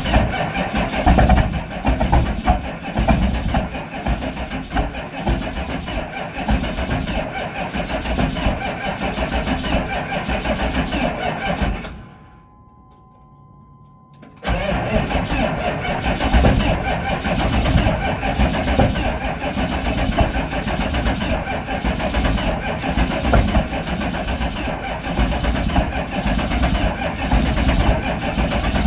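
1998 GMC 3500's 6.5-litre V8 diesel running with a rapid knocking, just after a cold start at −35 °C. About twelve seconds in, the engine sound falls away for a couple of seconds, leaving a steady tone, then the engine is heard running again.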